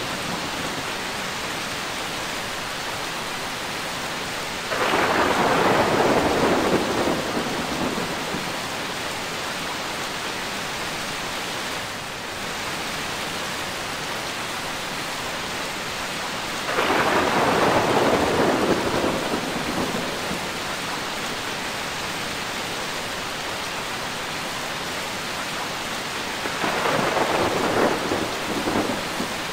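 Steady heavy rain falling, with three rolls of thunder: about five seconds in, again near the middle, and near the end. Each roll starts suddenly and fades over a couple of seconds.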